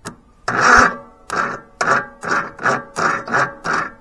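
A lawn tractor engine being cranked over by its starter, chugging in an even rhythm of about two to three strokes a second without catching.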